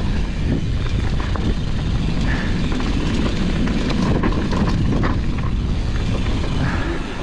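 Downhill mountain bike rolling along a rough trail: a steady rush of wind noise on the microphone and tyre noise, with frequent small rattles and clicks from the bike.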